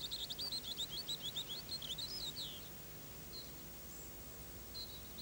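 A songbird singing: a quick run of about a dozen high notes over the first two and a half seconds, ending in a downward flourish, followed by a few faint single calls.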